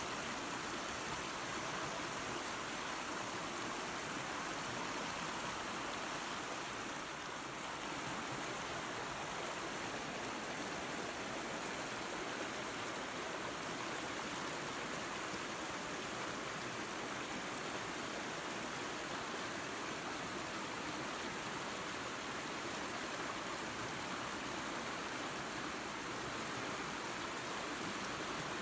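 Small waterfall and creek running steadily: an even rushing of water.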